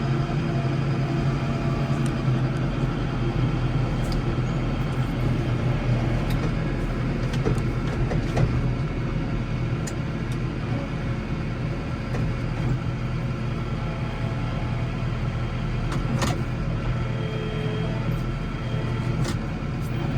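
Case 115U garden tractor engine running steadily under snowplowing work, with a few scattered sharp clicks over the hum.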